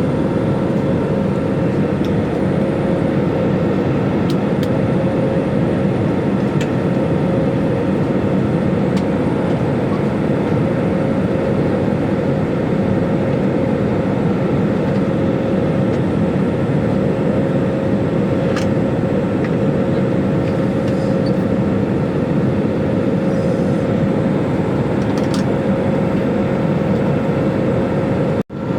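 Steady, loud engine and air noise inside an airliner cabin in flight, with a constant hum and a few faint clicks.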